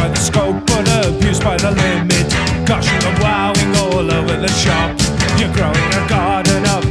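Post-punk band playing an instrumental passage: drums hitting steadily, with electric guitar lines bending in pitch over bass.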